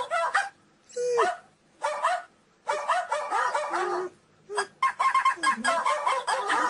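High-pitched dog whines and yips in quick runs, with short pauses between them and one falling whine about a second in.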